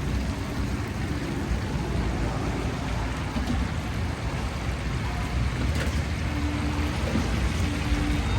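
Hot oil sizzling steadily as food deep-fries in a street-stall fryer, with a low hum underneath.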